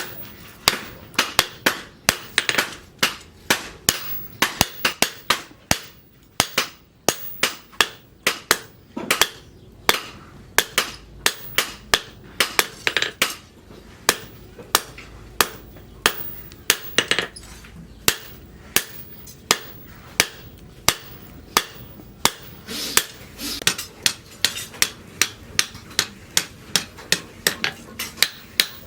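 Hammer blows on steel rebar at the anvil as a sickle blade is hand-forged: sharp metallic strikes in a steady rhythm of about two a second, each with a brief ring.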